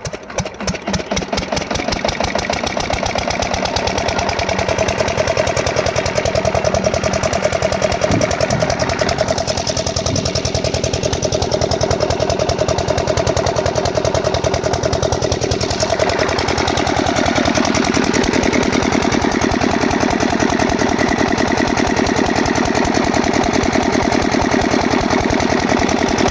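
Engine starting up and running with an even, rapid thudding beat, getting louder over the first few seconds and then running steadily.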